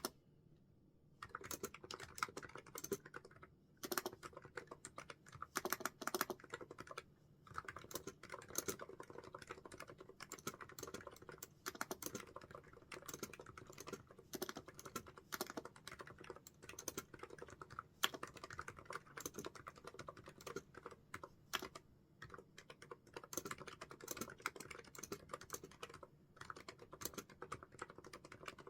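Typing on a computer keyboard: a fast, irregular stream of key clicks with brief pauses, starting about a second in.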